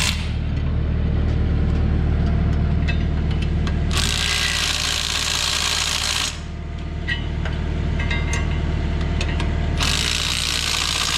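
An engine idling steadily with a low, even hum, with two stretches of loud hissing noise, one about four seconds in lasting about two seconds and another starting near the end.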